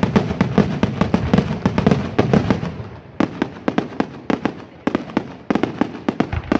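Fireworks display going off in a rapid barrage: a dense string of sharp bangs and cracks, several a second, with two short lulls, about three seconds in and again about five seconds in.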